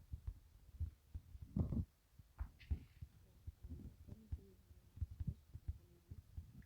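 Irregular dull low thumps and knocks, like handling noise, the loudest about one and a half seconds in, with a brief soft hiss a little later.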